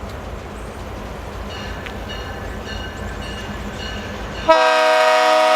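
A freight locomotive's air horn starts a loud, sustained blast about four and a half seconds in. Before it there is a low rumble and the faint, repeated dinging of a grade-crossing bell, about two and a half strokes a second.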